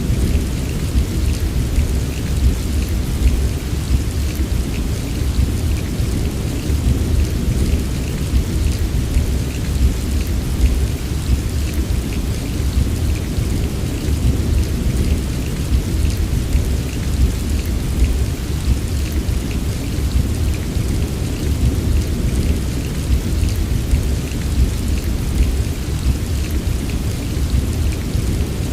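Steady heavy rain, an even wash of drops over a constant deep low rumble, with no separate thunderclaps.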